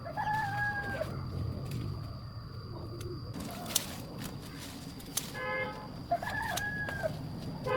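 Rooster crowing twice: short pitched calls near the start and again about six seconds in, with a shorter call just before the second.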